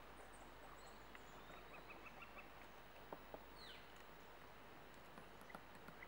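Near silence with faint, high bird calls: a quick run of soft ticks about two seconds in and a falling whistle near the middle, plus a few light taps.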